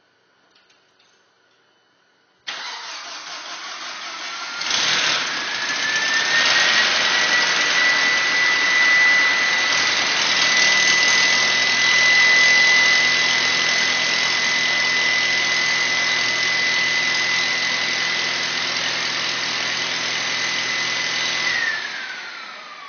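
VW/Audi 1.8T four-cylinder turbo petrol engine started and left running with a diesel-like clatter and a steady high whine, a noise the owner cannot identify. The sound starts suddenly, the engine catches about two seconds later with the whine rising to a steady pitch, and near the end it is shut off, the whine falling away.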